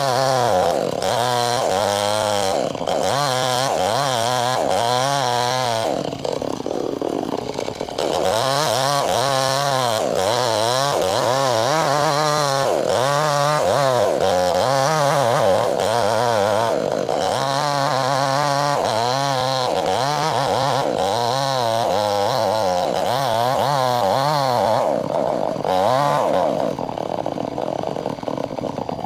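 Two-stroke chainsaw cutting lengthwise through a log, its engine pitch wavering up and down under load, with a softer, lighter-loaded stretch about six to eight seconds in.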